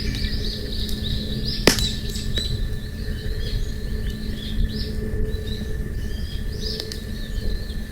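A small bird singing a rapid series of short chirps over the crackle of a campfire, with one sharp pop from the fire about two seconds in and a few fainter crackles after.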